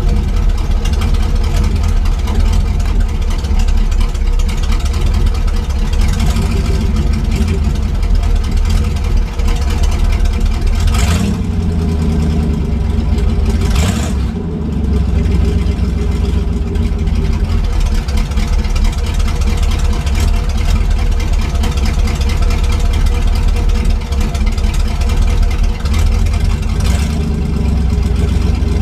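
1979 International Harvester Scout II's 345 cubic-inch V8 running at a loud, steady idle through open headers with the whole exhaust system removed. Two brief sharp noises cut through about 11 and 14 seconds in.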